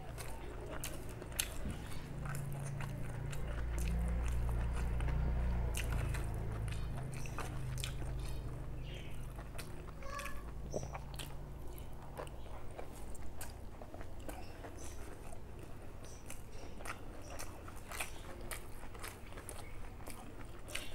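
Close-miked chewing and mouth sounds of someone eating a rice meal, with many small wet clicks and smacks and a low rumble through the first half.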